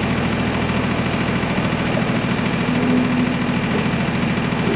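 1985 John Deere 1050's three-cylinder diesel engine running steadily with a rapid, even firing pulse.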